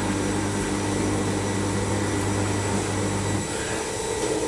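LG washing machine on its final spin, the drum turning at speed with a steady motor hum and whir. About three and a half seconds in, the low hum drops out and a higher-pitched tone takes over as the spin speed changes.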